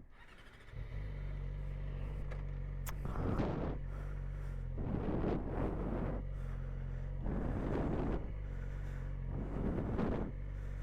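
Yamaha R6 sport bike's engine idling steadily, starting about a second in. Several swells of rushing noise rise and fade over it.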